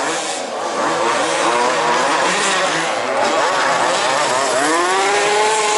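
Several 1/5-scale petrol RC off-road race cars' small two-stroke engines buzzing and revving together, their pitches rising and falling over each other as they race; one engine's pitch climbs near the end.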